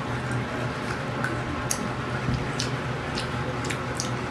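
Close-up eating sounds of someone chewing stir-fried pork intestine: wet chewing with many short, sharp mouth clicks and smacks scattered at irregular intervals, over a steady low hum.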